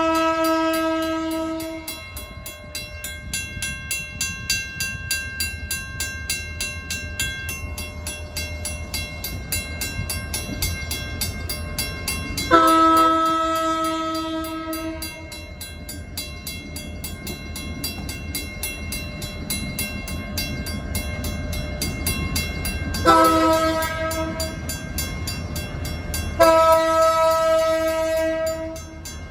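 Diesel locomotive horn sounding several long blasts, one fading out at the start, then blasts about 12, 23 and 26 seconds in. Under it the crossing's WCH first-generation mechanical bell rings rapidly and steadily, with the low rumble of the approaching train.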